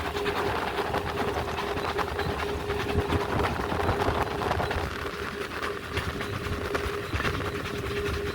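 Steam train running on the line, hauled by a GWR 2-8-0 tank locomotive, with a steady rumble and faint rhythmic beats. A steady hum-like tone runs underneath throughout.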